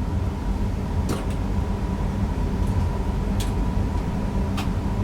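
Newag Impuls EN63 electric multiple unit running on the line, heard in the driver's cab: a steady rumble with a thin steady tone, broken by a few sharp ticks.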